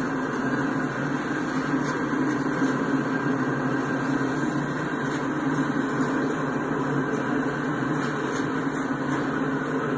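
Empty ballast hopper cars of a freight train rolling past a street crossing, a steady, even noise with no distinct clanks or horn. It eases slightly near the end as the last car clears.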